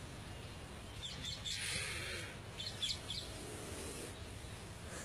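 Small birds chirping in short, quick calls, with a brief hiss about a second and a half in over a steady low outdoor rumble.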